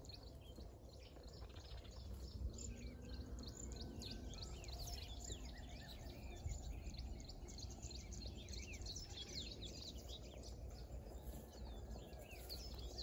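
Small birds chirping, with many short, quick calls overlapping throughout, over a low, steady outdoor rumble.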